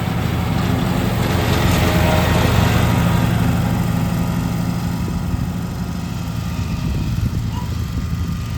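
Petrol lawn mower engine running steadily while mowing, growing louder about two seconds in as it comes close, then easing off.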